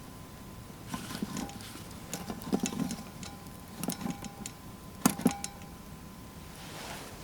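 Metal camp cookware and utensils being handled: a run of light clinks and knocks, several leaving a brief metallic ring, the two loudest about five seconds in.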